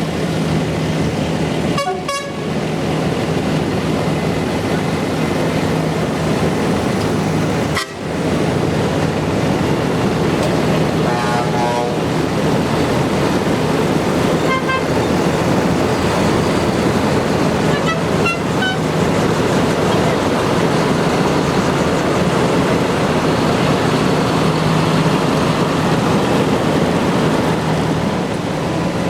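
Tractor engines running steadily, with short horn toots a few times.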